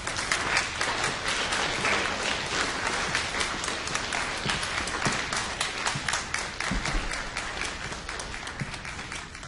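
Audience applauding: many hands clapping at once, starting suddenly and gradually thinning out and getting quieter toward the end.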